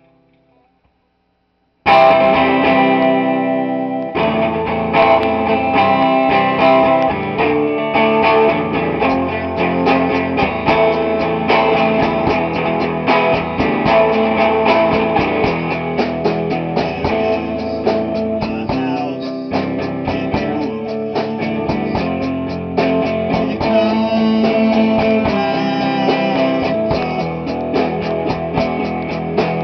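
Rock band playing loud, led by amplified electric guitar. It starts suddenly about two seconds in with a ringing chord, then settles into a steady, driving rhythm.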